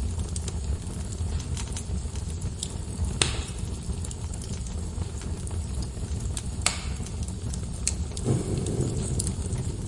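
Wood fire burning in a fireplace: a steady low rumble of flames with scattered crackles and sharp pops. The loudest snaps come about three seconds and six and a half seconds in, and a short soft rush follows a little over eight seconds in.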